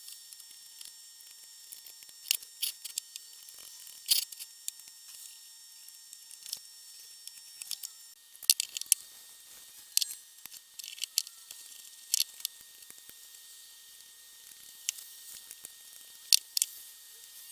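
Scattered light clicks and taps at irregular intervals, over a faint steady hiss.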